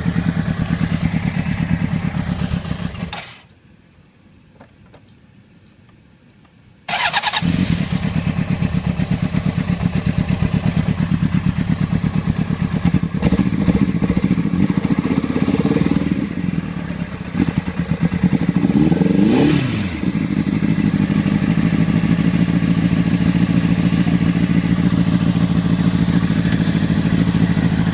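Honda CBR600RR inline-four engine running with a one-cylinder misfire: it dies about three seconds in, is restarted a few seconds later, is revved a few times, then settles back to a steady idle.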